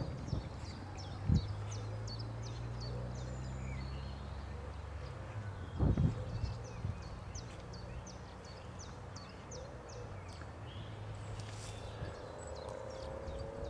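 Small birds chirping repeatedly over a low steady hum, with two dull knocks, about a second in and again at about six seconds.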